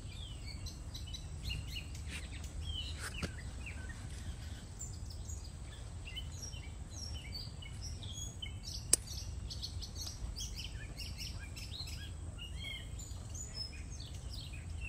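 Small birds chirping in many short, quick calls over a low, steady rumble. A single sharp click stands out about nine seconds in.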